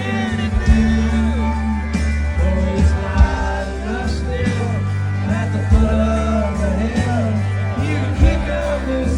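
Country band playing live: a singer over guitars, bass and a steady drum beat.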